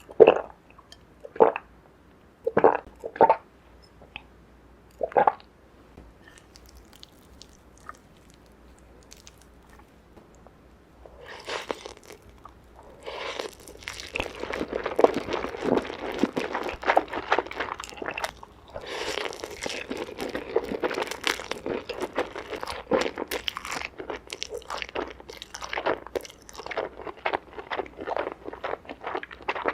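Close-miked eating sounds: five sharp bites in the first five seconds, then from about eleven seconds in, continuous chewing with crunching.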